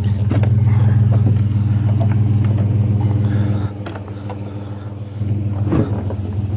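Truck engine idling with a steady low hum, which drops in level for a moment past the middle and then comes back. A few short knocks and clanks sound over it.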